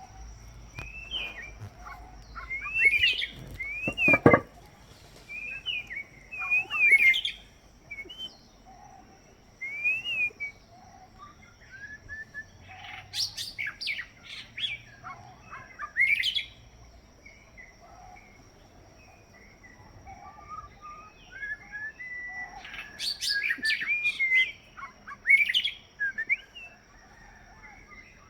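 White-rumped shama singing: phrases of rich gliding whistles, trills and sharp clicky notes, each a second or two long and separated by short pauses. A single sharp knock comes about four seconds in, and a faint steady high-pitched tone runs underneath.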